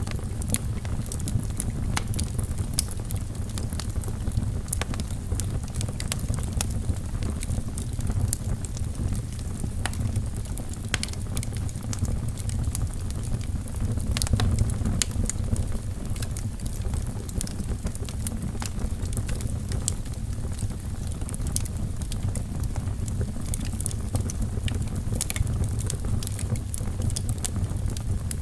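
Wood fire burning in a fireplace: a steady low rumble of flames, with frequent sharp, irregular crackles and pops from the burning logs.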